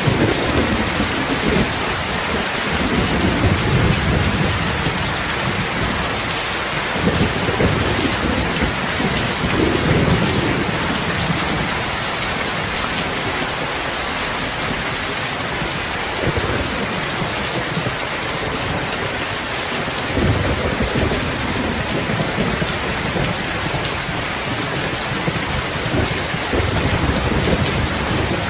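Heavy, steady rain hissing without a break, with low rumbles of distant thunder that swell and fade several times.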